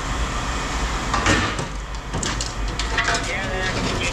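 Pieces of scrap metal clinking and clattering in a string of sharp knocks, over a steady low rumble of machinery.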